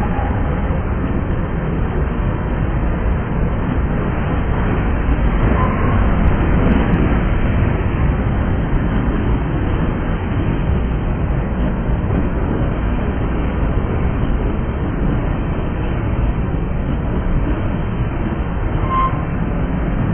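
Freight train of covered hopper cars passing close by: a steady, loud rumble and clatter of steel wheels on the rails, with a short squeak about five seconds in and another near the end.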